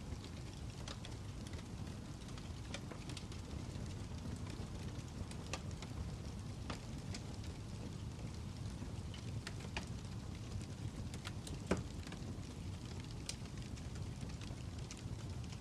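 Crackling fire: a low steady rumble of flames with scattered sharp pops and snaps, one louder pop about twelve seconds in.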